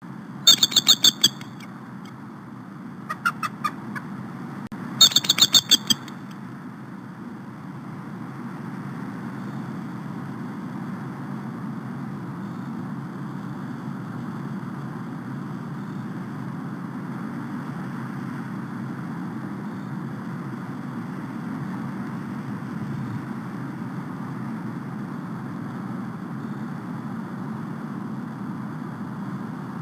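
A pair of bald eagles calling to each other in three rapid, high-pitched chittering bouts: a loud one near the start, a softer one a few seconds in, then another loud one. After that comes only a steady low background hiss from the nest webcam's microphone.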